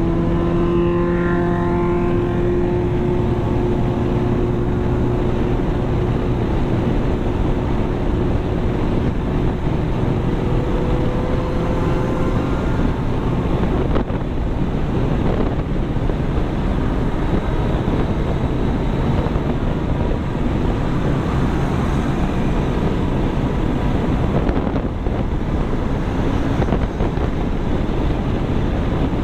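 A vehicle travelling at speed: steady road and wind noise, with a few steady pitched tones in the first dozen seconds.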